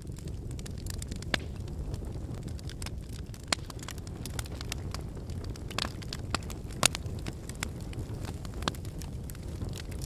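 Wood fire burning: a steady low rumble of flames with irregular sharp crackles and pops from the burning firewood, the loudest pops about three and a half and seven seconds in.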